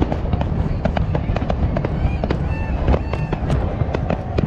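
Large fireworks display: many sharp bangs and crackles in quick, overlapping succession over a continuous low rumble of distant bursts.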